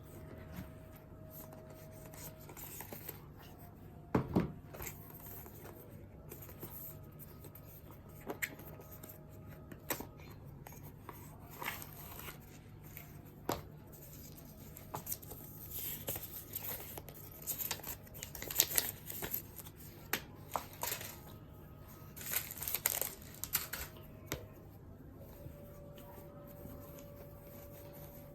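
Earbud packaging being opened and handled: scattered rustling, tearing and clicks of paper and plastic, busiest in the second half, over a steady low hum.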